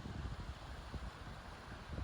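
Wind buffeting the microphone: irregular low rumbling gusts over a steady hiss.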